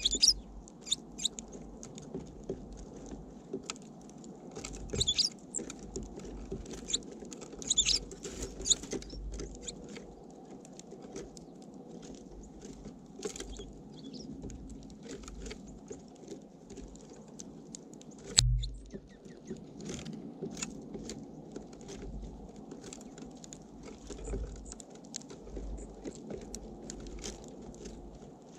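Small birds feeding at a seed feeder right beside the microphone: irregular light taps and clicks of beaks and feet on seed and feeder, with short low rumbles and one heavier thump about eighteen seconds in.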